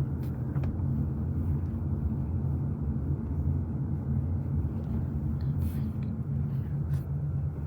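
A vehicle's engine running steadily with a low, even hum, heard while the vehicle moves.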